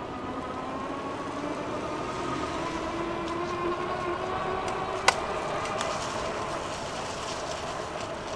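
Electric bike's single hub motor whining under power, its pitch slowly rising as the bike picks up speed, over steady tyre and wind noise. There is one sharp click about five seconds in.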